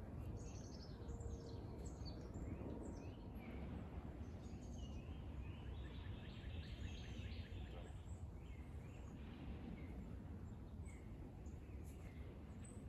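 Several wild birds chirping and singing, with one rapid trill partway through, over a steady low rumble.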